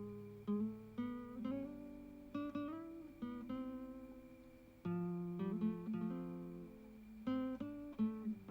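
Solo acoustic guitar music: plucked notes and strummed chords, each ringing out and fading before the next.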